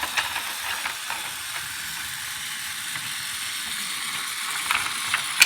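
Fisher-Price GeoTrax battery-powered toy train running on its plastic track: a steady high whirring hiss with scattered clicks, a few close together near the end.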